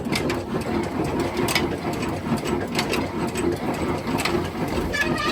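Diesel engine running steadily, a continuous mechanical rumble with a few light ticks.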